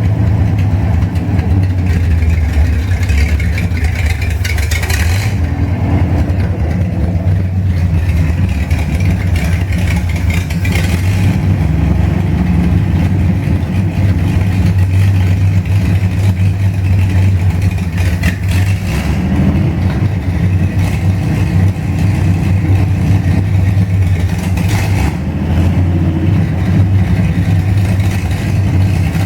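Chevrolet 235 straight-six running steadily on its first start-up, with a few brief surges in the noise.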